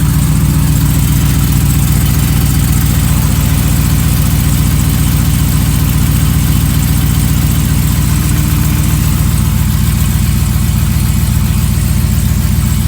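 2015 Ram's 5.7L Hemi V8 with long-tube headers idling steadily, with the knock the owner is asking about, which he suspects may be piston slap.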